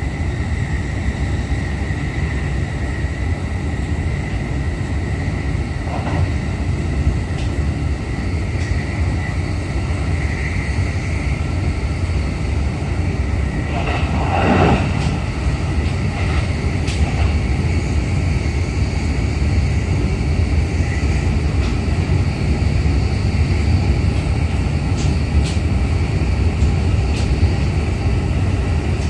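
Running noise inside a JR East E531 series electric train car between stations: a steady low rumble of wheels on rail. A faint high steady whine sits over it for roughly the first ten seconds, and the noise swells briefly about halfway through.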